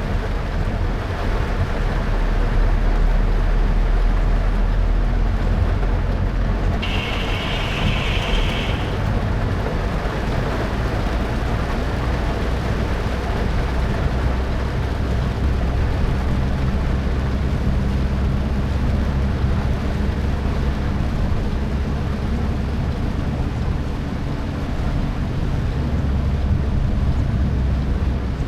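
Car driving on a wet road: steady engine and tyre rumble with road hiss, heard from inside the cabin. About seven seconds in, a brief higher-pitched sound cuts in and lasts about two seconds.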